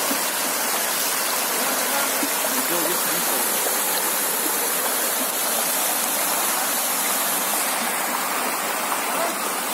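Water rushing steadily down a small waterfall and stream over limestone rocks, a constant even hiss.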